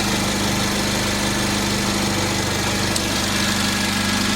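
Straight-piped Mercedes-AMG CLA45's turbocharged four-cylinder engine idling steadily, exhaust running without mufflers.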